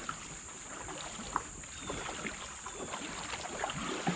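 Kayak paddling: the paddle dips and water splashes and drips, with scattered small clicks and knocks.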